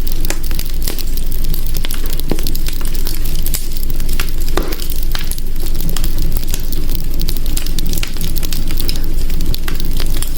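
Wood fire crackling in a hearth: many irregular sharp pops and snaps over a steady low rumble of flame.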